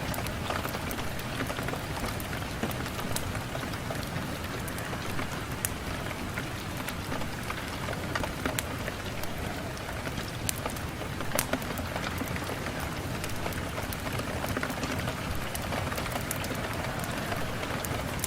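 Steady rain falling on a window pane, with scattered sharp clicks throughout.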